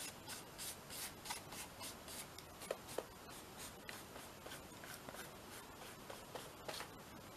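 Scratchy strokes of an applicator rubbing across a paper journal page as gesso is worked on. The strokes come at about three a second at first, then become irregular, with a couple of sharper taps a little under three seconds in.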